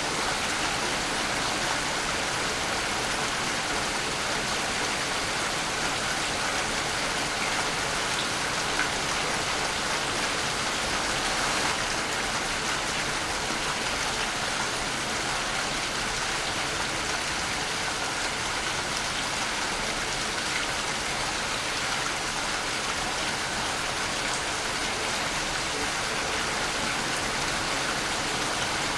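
Waterfall: a steady, unbroken rush of falling water splashing.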